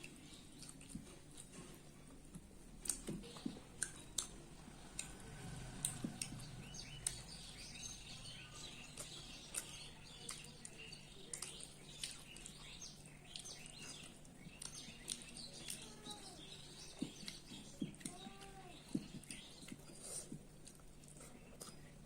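Small birds chirping in the background, many short high notes, with a few scattered small clicks.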